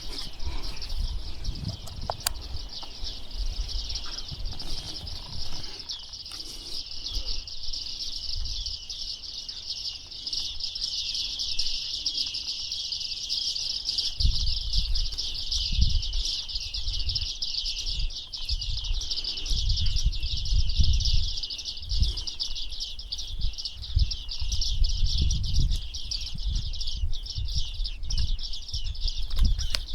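Bearded reedlings calling: a dense, steady high-pitched chatter of small birds. From about halfway in, low rumbling bumps come and go beneath it.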